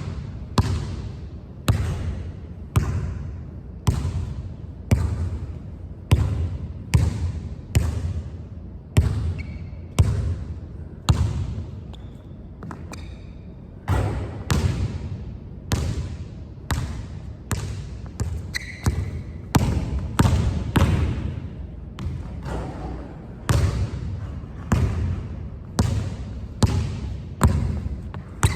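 Basketball dribbled hard and repeatedly on a court, sharp bounces about once a second with short echoing tails, thinning out briefly around the middle before picking up again.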